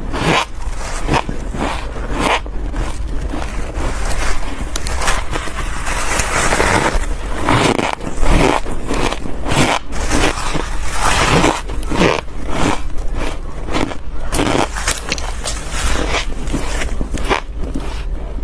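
Close-up biting and crunching of soft, frosty white ice chunks: a quick run of crisp crackling bites, with a few longer grinding crunches along the way.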